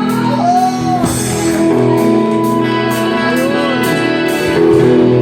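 A live band playing an instrumental passage: sustained keyboard chords and a guitar line with bent notes, over steady cymbal strikes from a drum kit.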